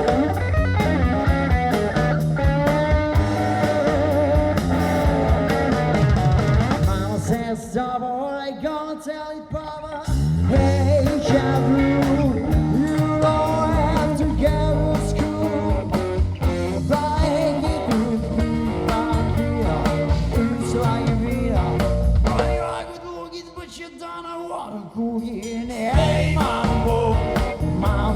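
Live rock band playing, with electric guitar, drum kit and some singing; the band drops back briefly twice before coming back in full.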